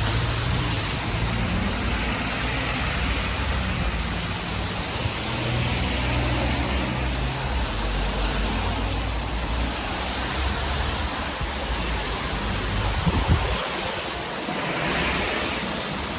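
Wind buffeting the microphone outdoors, a steady rushing noise with a low rumble underneath that drops away about three seconds before the end.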